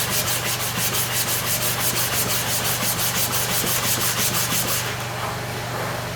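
Clipper blade in a blade holder rubbed back and forth on a sharpening stone with oil and sharpening powder, in an even rhythm of about four strokes a second that stops about five seconds in. A steady low hum runs underneath.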